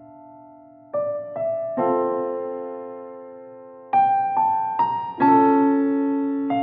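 Slow, gentle background piano music: single notes and soft chords struck a few at a time and left to ring and fade.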